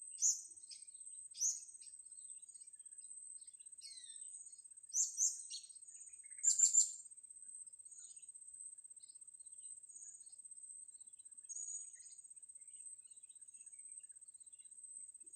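Small birds giving short, high, sharp chirps at irregular intervals, with a quick run of three loud chirps around the middle, over a steady thin high-pitched whine.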